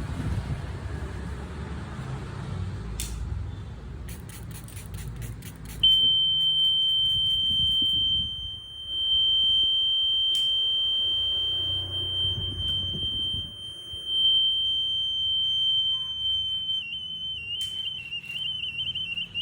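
Piezo buzzer of a homemade rain sensor sounding its alarm: a steady high-pitched beep-tone that comes on about six seconds in and holds, wavering and dipping slightly in pitch near the end. Before it there is a low rumble and a few clicks.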